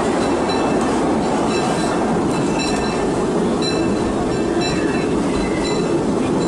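Disneyland Railroad passenger train running along the track, heard from on board: a steady rumble and rattle of the car, with short high squeaks coming and going every second or so.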